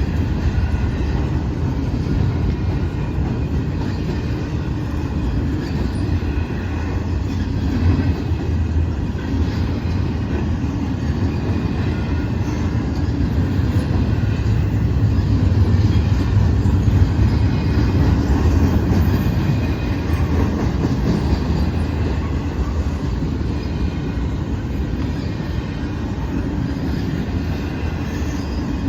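A train rolling past at close range: a steady rumble of wheels on the rails, growing a little louder about halfway through.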